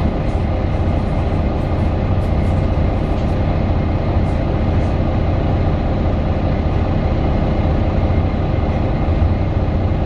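Inside the passenger cabin of a 2018 Mercedes-Benz Citaro 2 city bus under way: its OM 936 six-cylinder diesel and ZF Ecolife automatic running steadily, with road and tyre noise and a deep, even rumble.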